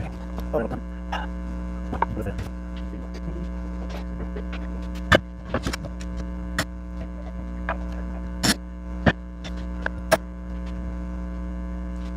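Steady electrical mains hum, with about half a dozen sharp clicks and knocks scattered through it, the loudest a little past the middle.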